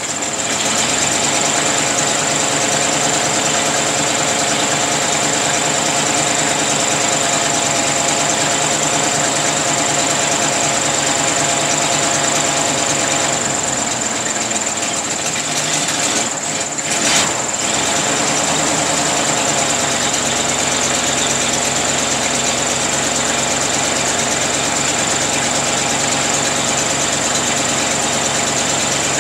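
1934 Ford flathead V8 running steadily at idle, on its first run after about 30 years of sitting. There is a brief louder blip about seventeen seconds in.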